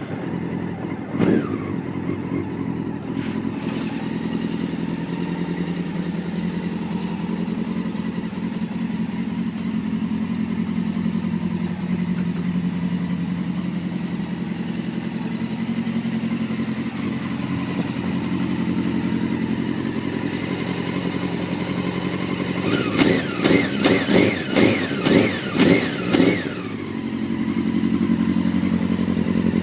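Honda CBR600F2's inline-four engine running through an Arrow aftermarket exhaust. It idles steadily, with one quick blip about a second in, and near the end it is revved in a rapid run of short throttle blips before settling back to idle.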